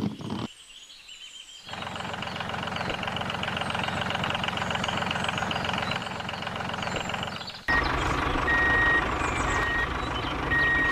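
Vehicle engine running steadily. From about eight seconds in it gets louder and a reversing alarm beeps over it, about once a second.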